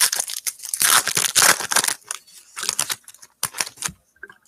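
Trading cards handled by hand, slid and flicked past one another: dense rustling for about two seconds, then a run of sharp clicks.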